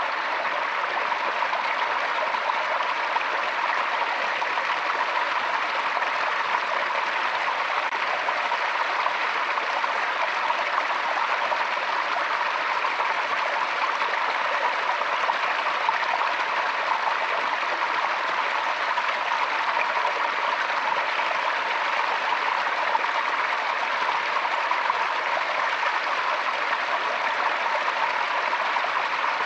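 A stream's water flowing steadily, an even rushing and trickling that doesn't change.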